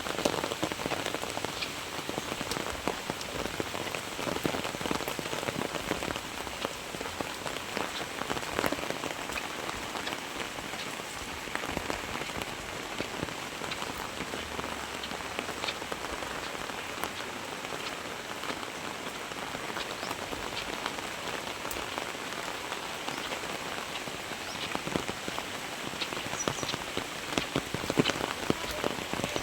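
Very heavy rain: a dense, steady hiss of falling rain with many separate drops ticking close by, slightly louder near the end.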